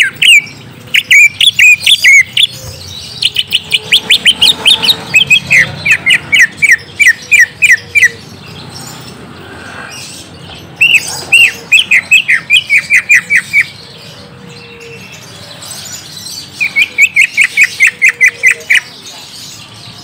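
Cucak ijo (leafbird) song: rapid strings of loud, sharp chirps, about four to five a second, coming in four bursts of a few seconds each with pauses between.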